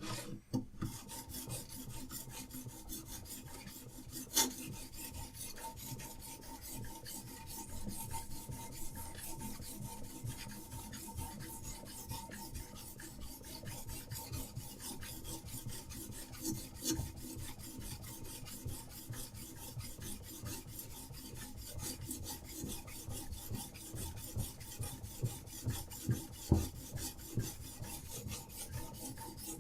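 Diamond sharpening stone on a Hapstone RS guided sharpener scraping along a survival knife's steel edge in rapid repeated strokes, a continuous rasp, with an occasional louder click.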